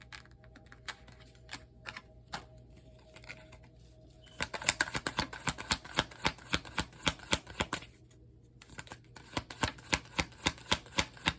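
A tarot deck being shuffled by hand: a few scattered card snaps, then two runs of rapid card slaps with a short pause about eight seconds in.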